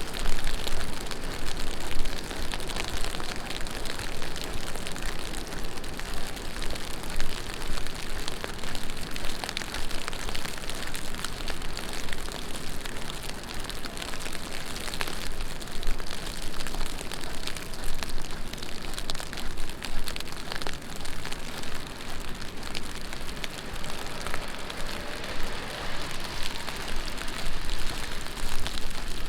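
Heavy rain falling on the street and the surfaces around: a steady, dense hiss with many sharp drop ticks, swelling a little now and then.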